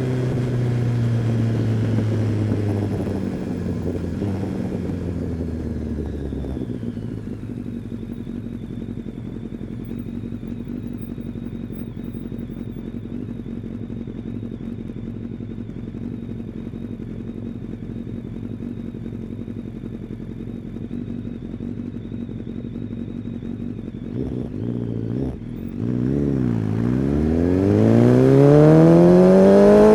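Kawasaki ZX-10R's inline-four engine dropping in revs as the bike slows, then idling steadily for a long stretch. Near the end the revs climb sharply and loudly as it pulls away.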